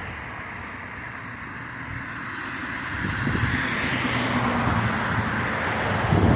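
Street traffic: a car going past, its tyre and engine noise swelling about three seconds in, over a steady background hum of traffic.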